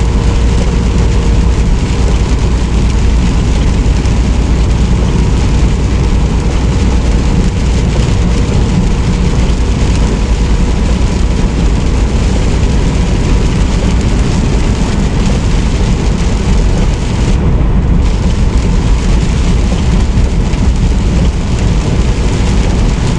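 Steady running noise inside a semi truck's cab on the move: a low diesel engine drone mixed with road and tyre noise, with rain or a wet road adding a hiss.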